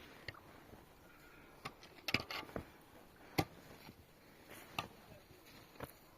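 Scattered sharp knocks and clicks, irregularly spaced, with a quick cluster about two seconds in and the loudest single knock a little after three seconds.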